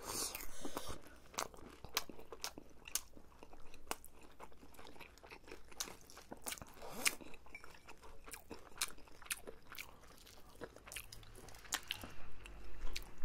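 Close-miked chewing of spicy tteokbokki rice cakes, many sharp, irregular wet mouth clicks and bites, as two people eat.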